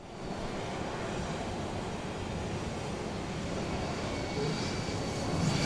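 Jet engine starting up: a steady rushing noise with a faint high whine, slowly growing louder toward the end.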